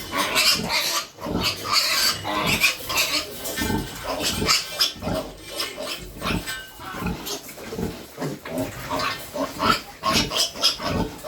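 Piglets calling: a steady run of short, irregular, overlapping squeals and grunts.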